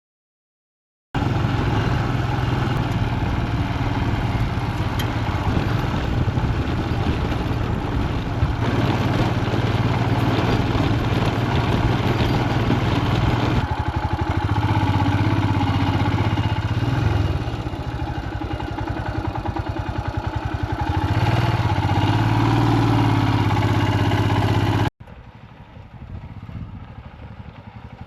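Royal Enfield Himalayan's single-cylinder engine running under load at low speed, the throttle easing off and opening again midway. The sound starts abruptly after a moment of silence and drops suddenly to a quieter engine sound near the end.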